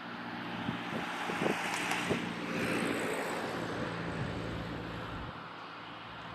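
Jet airliner engines passing, a rushing roar that swells to its loudest about two to three seconds in and then fades, with a few light knocks.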